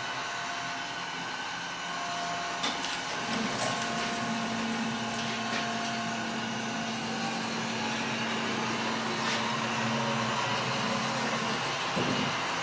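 Model train locomotive running on layout track: a steady motor hum with a few sharp clicks.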